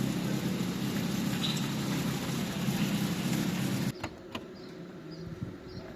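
Steady motor hum over a noisy haze that cuts off abruptly just before four seconds in, followed by two sharp clicks over a quieter background.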